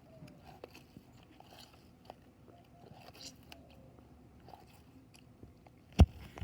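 Sulcata tortoise biting and chewing watermelon rind: soft, irregular crunches and clicks from its beak on the rind. Near the end comes one loud, sharp knock.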